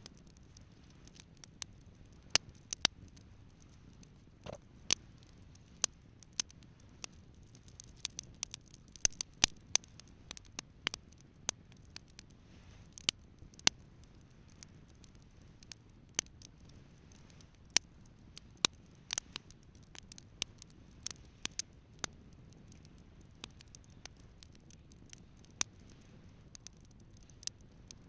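Wood campfire crackling: irregular sharp pops and snaps, thickest in the middle stretch, over a faint steady low noise.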